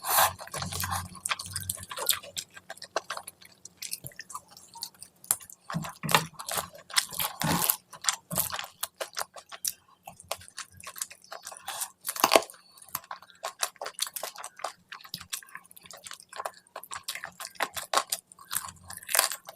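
Close-miked chewing and biting of curry, rice and puri: dense, irregular wet mouth sounds with sharper crunchy bites now and then. The loudest bites come about seven and a half seconds in and about twelve seconds in.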